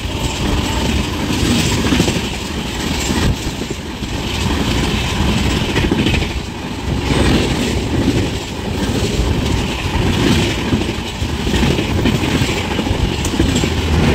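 Konkan Kanya Express passenger coach running along the track: a loud, steady rumble of wheels on rails with irregular knocking.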